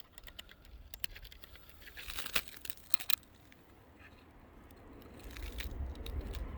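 Small clicks, rattles and rustling from handling a hand drill and swapping in a small 1/16 inch drill bit, with a couple of sharper clacks around two and three seconds in. A low rumble builds near the end.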